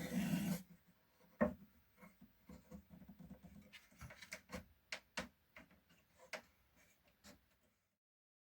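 Plywood parts and a clamp being handled on a workbench: a brief rustle, a sharp knock, then a scatter of light wooden clicks and taps, cutting to dead silence near the end.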